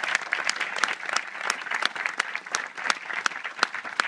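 A crowd applauding: many hands clapping densely and unevenly.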